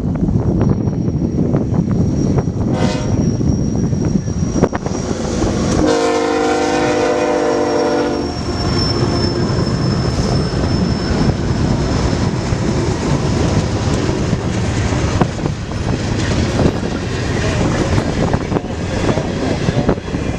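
Freight train locomotive's air horn sounding one chord of about two seconds, a few seconds in, over the steady rumble of the passing train.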